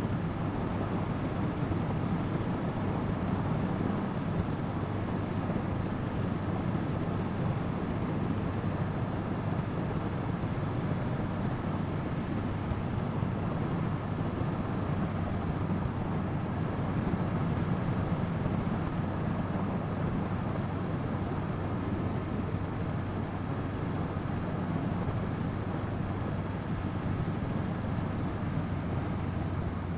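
Wind rushing over the action-camera microphone on a moving motorcycle, with the 2017 Honda CB500F's parallel-twin engine running steadily underneath at an even speed.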